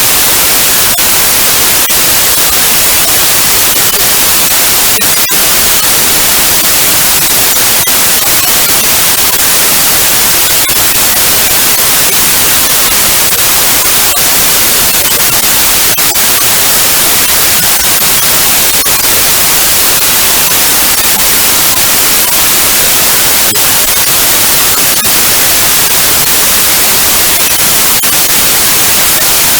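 Digitally generated white noise: a loud, steady, even hiss with no change throughout.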